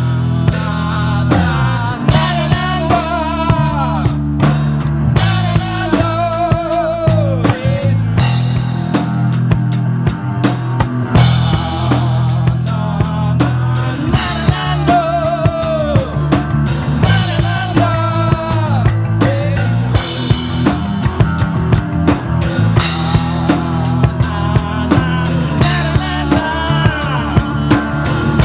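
Live rock band playing: drum kit keeping a steady beat under sustained bass notes, with a lead melody of bending, sliding notes repeating in short phrases.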